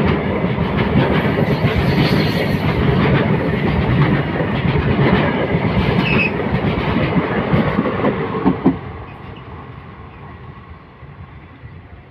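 Freight train of covered boxcars passing close by, its wheels clattering over the rail joints in a loud, steady rumble. About nine seconds in, the last wagon goes past: the sound drops sharply and then fades as the train moves away.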